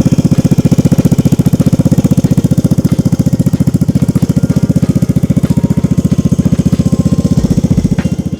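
Vespa Primavera scooter's single-cylinder engine idling through an aftermarket Akrapovic exhaust. It makes a loud, steady putter of about ten pulses a second, easing off slightly near the end.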